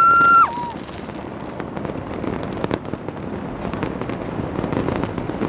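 A horn-like blast that rises in pitch and holds for about half a second at the start, then a steady barrage of New Year fireworks and firecrackers: many sharp pops and bangs over a continuous rumble.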